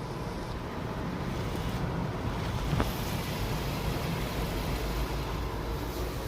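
Automatic car wash machinery working over the car, heard from inside the cabin: a steady rushing noise over a low rumble, with a brief click about three seconds in.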